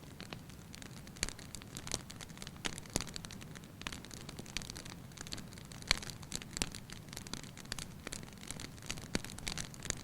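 Fire burning in a fireplace: irregular sharp crackles and pops over a low steady rumble, with one louder pop about six seconds in.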